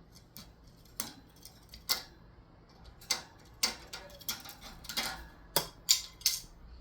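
Coins clinking as a pet parrot tosses them about: about ten sharp metallic clinks at uneven intervals.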